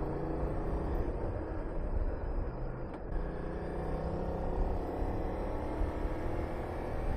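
Honda VTR250's V-twin engine running under way, with wind rushing past. The engine note dips briefly and shifts in pitch about three seconds in.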